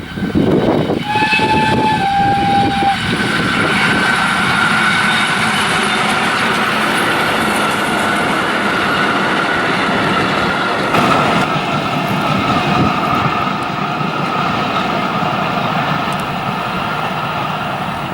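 PKP class Ol49 steam locomotive passing close by: a short whistle blast about a second in, dropping slightly in pitch, then the loud, steady running noise of the locomotive and carriages going past.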